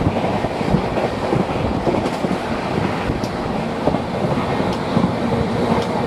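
Indian Railways express passenger coach running at about 128 km/h, heard from an open window: a continuous wheel-on-rail rumble and coach rattle, broken by irregular clacks and knocks.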